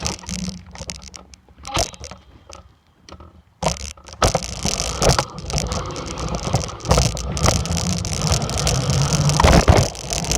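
A few scattered knocks and rattles. About three and a half seconds in, a dirt bike gets moving, its engine running steadily under a continuous rushing noise and rattle.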